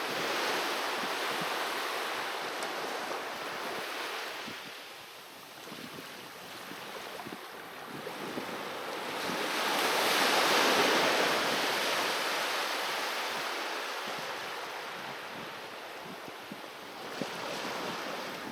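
Sea waves breaking and washing on a beach, the surf swelling to a loudest surge about halfway through and then easing back.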